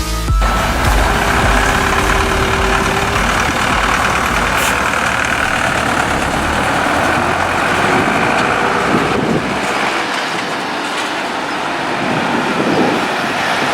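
Large farm machinery running steadily: a heavy engine's continuous noise with a dense rushing haze over it.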